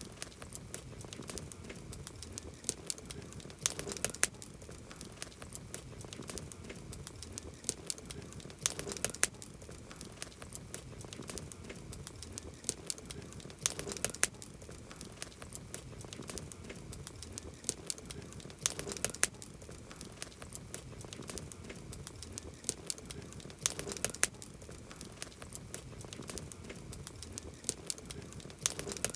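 Campfire crackling: a steady scatter of sharp crackles over a low hiss, with a denser cluster of louder crackles about every five seconds.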